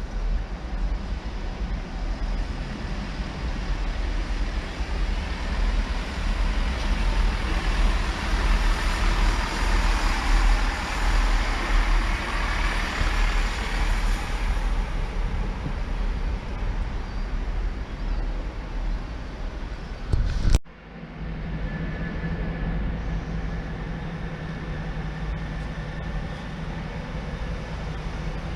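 Diesel train sounds: an engine rumble with rail noise that swells and eases off over several seconds, then, after an abrupt cut about two-thirds of the way through, a steady engine hum with a constant tone.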